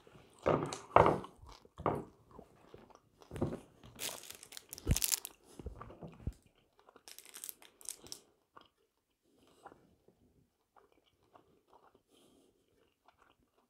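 Close-up crunching and chewing of a hard candy-coated sweet (dragée): several loud crunches in the first half, then quieter, sparser chewing.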